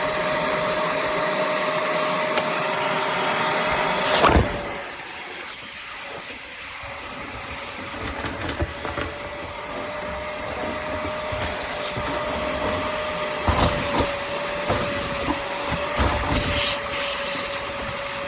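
Vacuum cleaner running steadily with a constant whine and a rush of air. There is a knock about four seconds in, and a sharper hiss of air comes and goes, with a few thumps near the end.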